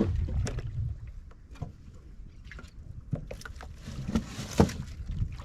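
Firewood being handled: scattered knocks and clunks of wood, the loudest about four and a half seconds in, with wind rumbling on the microphone during the first second.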